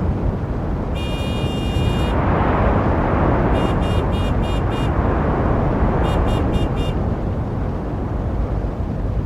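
Steady rumble of city street traffic. A high-pitched horn sounds one long blast about a second in, then two quick runs of short honks, five and then four, around four and six seconds in.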